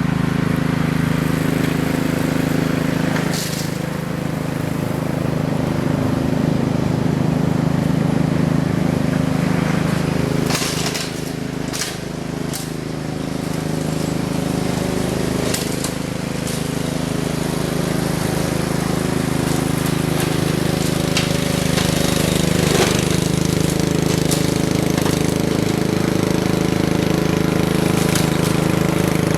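Small gasoline engine running steadily at an even speed, with a few brief noisy bursts over it.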